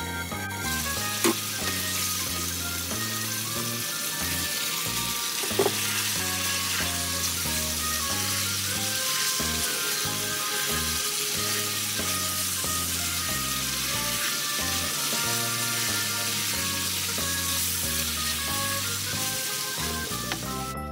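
Sweet and sour chicken pieces frying and sizzling in a hot wok while being stirred with a spatula. The sizzle starts loudly about half a second in, with two sharp knocks of the spatula against the pan in the first few seconds. Background music plays underneath.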